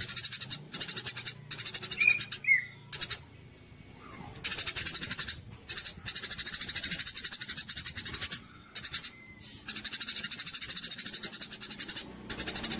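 Recorded song of a 'gereja' (tree sparrow) type songbird in a rapid-fire style: phrases of fast, high, rattling trills lasting one to two seconds, broken by short pauses. There is a longer pause about three seconds in and a couple of brief call notes just before it.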